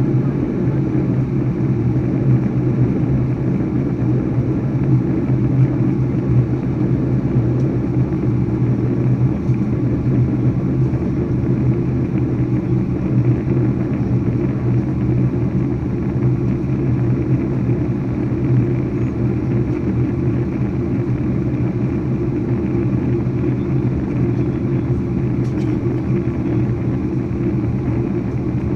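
Steady low rumble of a Boeing 737-800's jet engines and rushing air, heard inside the passenger cabin in flight after take-off.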